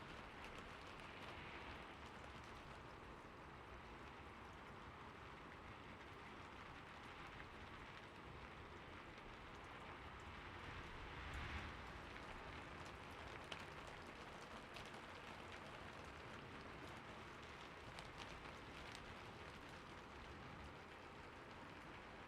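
Faint, steady rain: an even hiss with scattered soft drop ticks, swelling slightly about halfway through.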